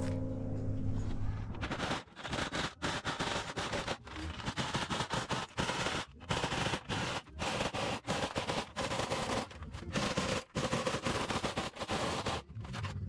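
Power tool cutting holes in the sheet-steel wall of a metal drum: a motor runs briefly, then a rapid metallic rattle comes in bursts broken by short pauses.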